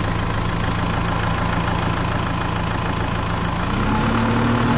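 Tractor engine running steadily with a low hum, its pitch stepping up slightly as it speeds up about three and a half seconds in.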